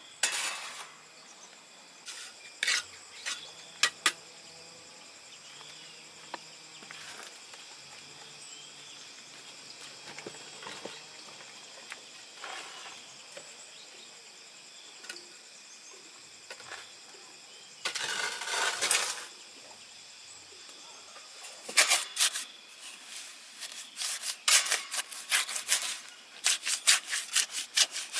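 Hand tool work: scattered clicks and knocks, a short scraping stretch partway through, then rapid rhythmic scraping strokes near the end, over a steady background chirring of insects.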